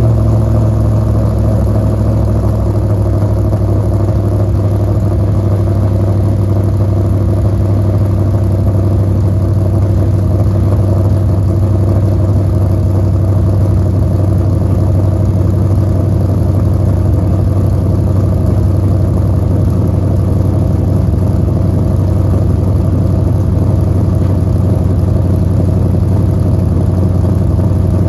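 Rebuilt LS V8 with individual throttle bodies idling steadily.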